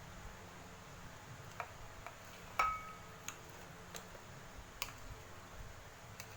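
A handful of light, scattered clicks and taps of small hard objects. One louder clink about halfway through rings briefly.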